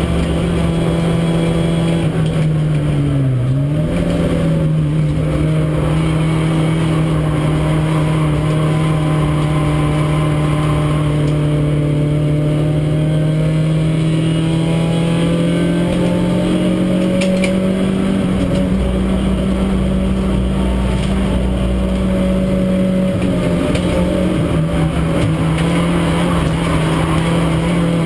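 Renault Clio race car's engine running hard at high, nearly steady revs, heard from inside the cabin. About three seconds in, the engine note dips briefly and climbs back.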